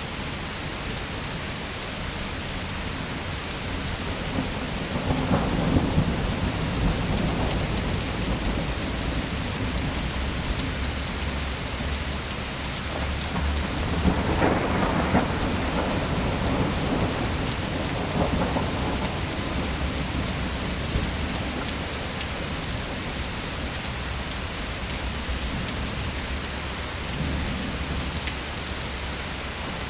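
Steady rain, with thunder rumbling in low swells a few times: about five seconds in, a longer roll around the middle, and again near the end.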